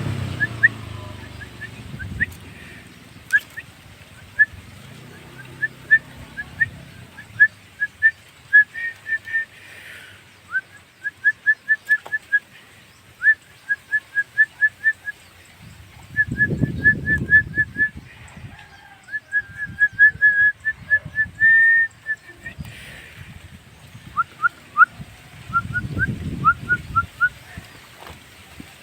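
Javan myna (jalak kebo) singing: a long string of short, sharp whistled notes, some run together in quick trills. A low rumble rises and fades twice underneath.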